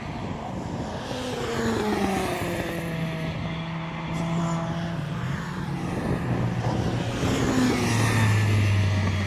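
Rally car engines running and revving, the pitch falling, holding, then rising again as they slow and accelerate.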